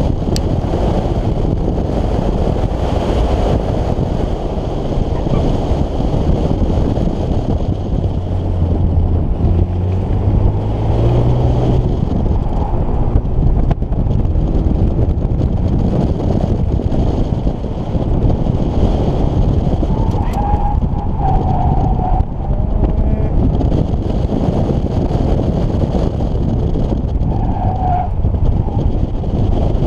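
Hyundai Genesis Coupe 2.0T's turbocharged four-cylinder engine under hard acceleration and lift-off, heavy wind rush over an outside-mounted microphone; the engine pitch rises around ten seconds in. Brief tyre squeals come around twenty and twenty-eight seconds in.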